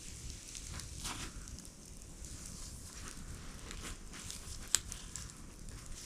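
Campfire crackling: wood burning with scattered small pops and one sharp snap just under five seconds in, over a low steady rumble.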